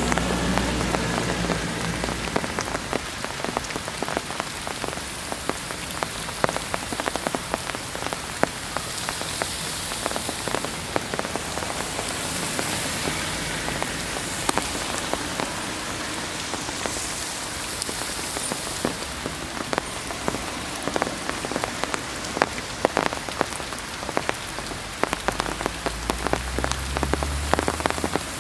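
Heavy rain falling steadily, with many sharp drops ticking on nearby surfaces.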